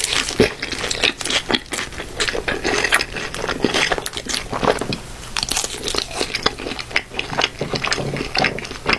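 Close-miked eating of In-N-Out fast food: crunchy bites and chewing, an irregular run of crisp crackles.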